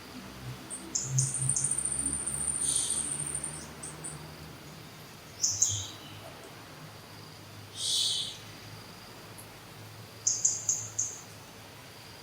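High-pitched animal calls: short chirps in several quick runs, with a long, thin, steady whistle about a second in, over a faint low hum.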